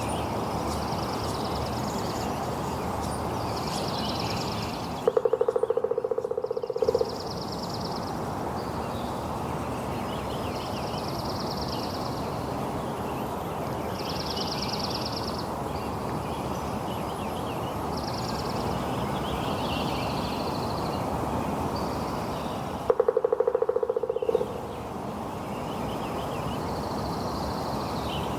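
Steady rain hiss with birds trilling over it every couple of seconds. Twice, about five seconds in and again near the twenty-third second, a loud low buzzing tone cuts in for about two seconds while the rain drops out.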